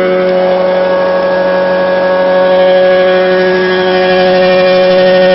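Walinga 510 Agri-Vac grain vacuum running at a steady pitch with a constant drone while moving wild rice; it grows slightly louder about two and a half seconds in.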